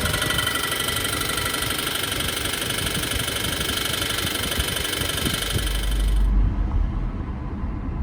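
2014 Subaru Forester XT's FA20 2.0-litre turbo flat-four running with a knock, the sign of a spun connecting-rod bearing. About six seconds in, the sound changes abruptly to a duller low rumble.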